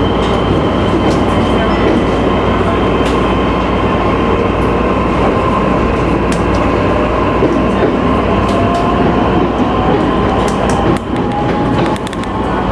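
JR Nikko Line electric train running on the rails, its traction motor whine rising slowly in pitch as it picks up speed. Sharp clicks of the wheels over the track come now and then, more often near the end.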